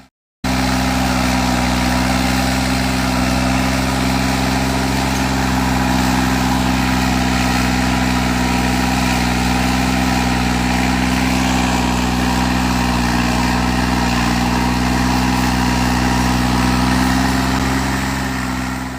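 Mahindra Arjun 605 tractor's four-cylinder diesel engine running steadily, its pitch dipping slightly about two-thirds of the way through, then fading out at the end.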